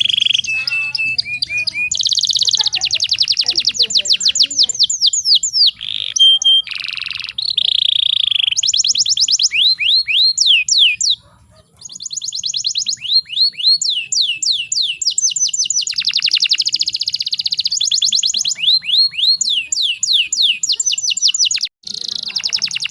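Canary singing a long, fast song of trills and rolls: rapid runs of repeated sweeping notes, with two short breaks.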